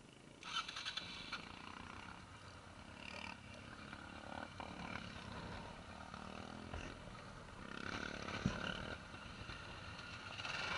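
Motorcycle engines running nearby, swelling and easing with throttle, starting about half a second in.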